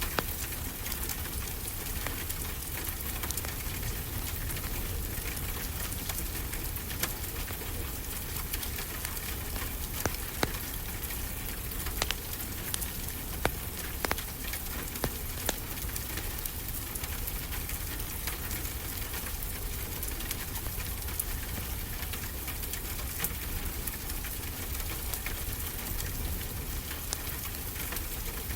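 Steady rain falling on a surface, with a wood fire crackling: scattered sharp pops, several close together in the middle.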